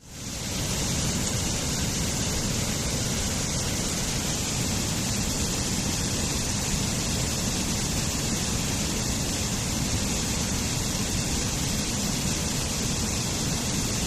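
Waterfall: steady rushing, splashing water with no break, rising back in from a brief dip at the very start.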